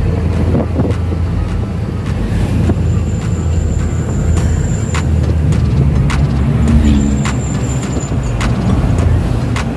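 A road vehicle driving: a steady low rumble of engine and road noise, with scattered light clicks and ticks over it.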